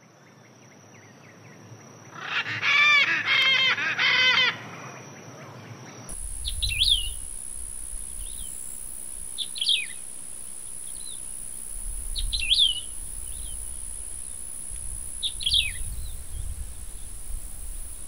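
A burst of loud, harsh bird calls about two seconds in. After that, a small bird gives short sweeping calls every few seconds over a steady high insect drone and a low wind rumble.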